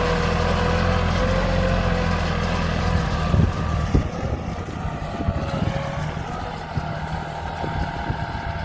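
40 hp Yanmar tractor's diesel engine running steadily, with a couple of knocks about three and a half seconds in, after which the engine is quieter.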